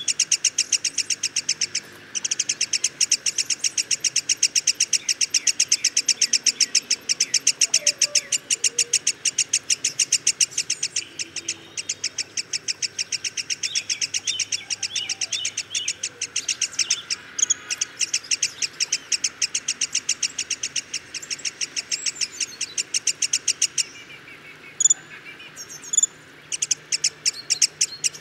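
Black-headed sibia calling: long trains of rapid, sharp repeated notes, broken by short pauses. Near the end the notes come more sparsely, in short groups and singly.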